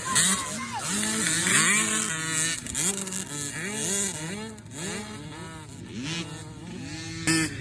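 Several motocross dirt bikes revving hard and shifting at once, their engine notes climbing and dropping over and over.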